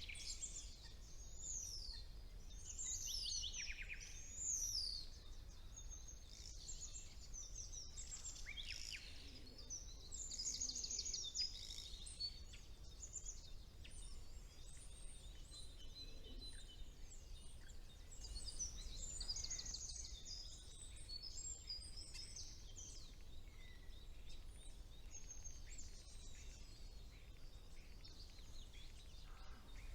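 Spring woodland bird chorus: several songbirds singing at once, with overlapping high chirps, rapid trills and sweeping whistled notes. A steady low rumble sits underneath.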